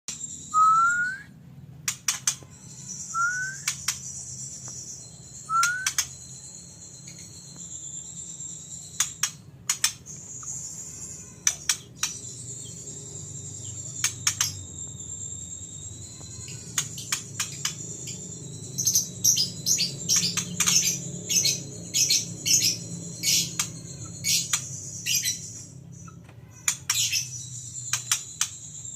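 White-rumped shama (murai batu) singing: three short rising whistles in the first few seconds, then sharp chip and rattle notes that come thick and fast about two-thirds of the way through. Under the bird runs a steady high-pitched drone.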